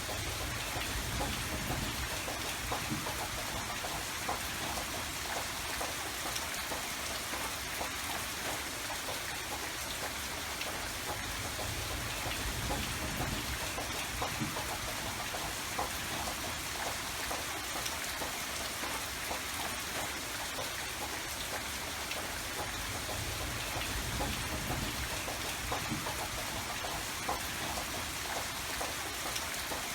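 Steady rain falling, with many fine drop patters over a soft, low rumble.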